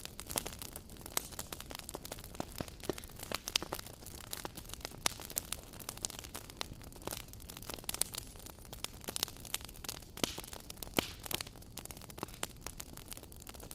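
Wood fire crackling: irregular sharp pops and snaps of varying loudness over a low steady rumble of the burning fire.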